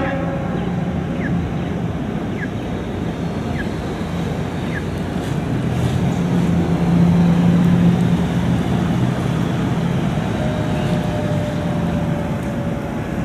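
Fire engine's engine running with a steady low hum that swells louder in the middle. Near the end a faint tone starts and slowly falls in pitch.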